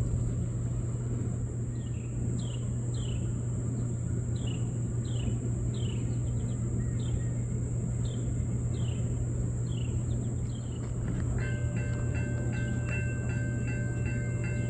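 Steady low rumble of an approaching freight train, with a run of high falling chirps about twice a second. About 11 seconds in, a grade-crossing warning bell starts ringing rapidly, the crossing activating for the oncoming train.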